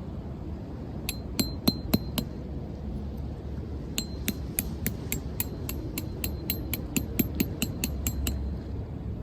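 Repeated sharp metallic taps with a bright ringing tone, a short run of five, then after a pause a longer run at about four taps a second that stops shortly before the end.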